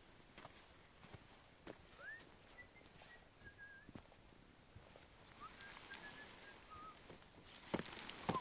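Faint whistled notes in two short phrases, each opening with a rising note followed by a few short, even notes, over sparse faint clicks.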